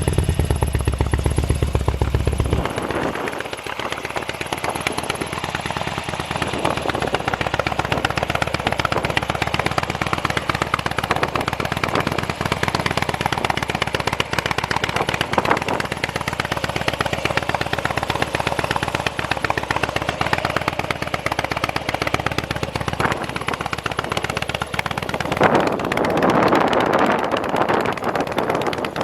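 Harley-Davidson Dyna FXDB Street Bob's fuel-injected V-twin running through an aftermarket muffler, idling with a rapid pulsing beat. It is revved briefly near the end.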